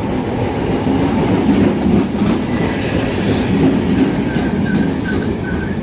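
Passenger train running on the rails: a steady, loud rumble with the clickety-clack of wheels over the track. A faint rhythmic squeak comes in over the last couple of seconds.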